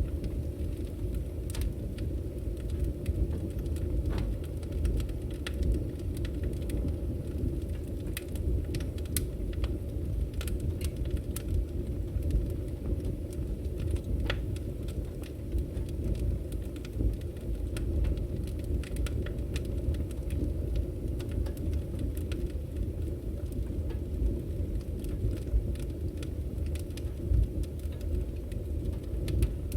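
Firewood burning: a low, steady rumble from the flames, with scattered sharp crackles and pops from the logs at irregular intervals.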